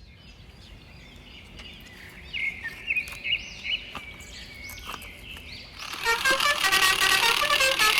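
Birds chirping in short repeated calls over a faint steady background. About six seconds in, a much louder run of short pitched notes at several stepping pitches comes in and keeps going.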